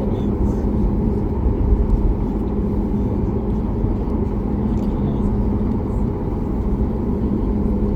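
Steady rumble of a Boeing 737 MAX 8 heard inside the passenger cabin, with a constant hum and low noise at an even level.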